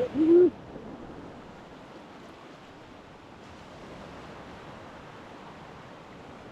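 Steady wash of Lake Superior waves breaking on the beach, with a short voice right at the start.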